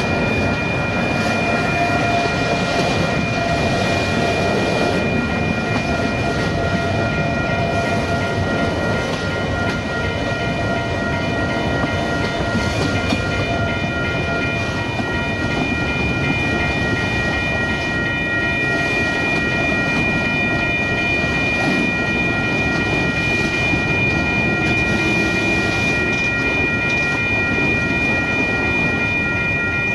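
Freight train of autorack cars rolling past: a continuous rumble and clatter of wheels on rail, with steady high ringing tones held throughout.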